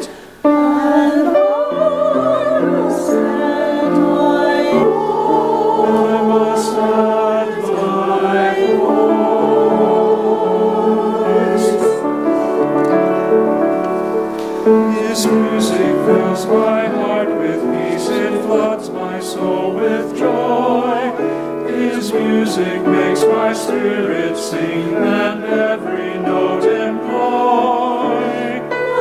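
Church choir singing with vibrato in several parts, with light instrumental accompaniment.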